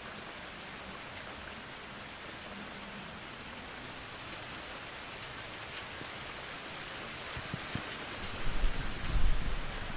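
Steady heavy rain hissing, with a low rumble of thunder swelling up in the last couple of seconds.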